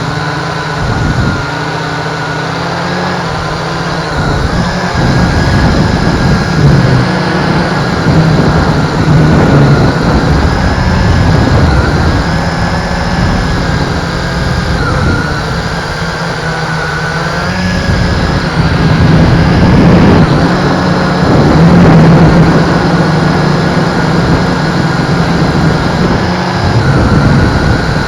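MJX X101 quadcopter's motors and propellers whining steadily, the pitch wavering up and down as the motor speeds change. Heavy wind buffeting rumbles over it in surges.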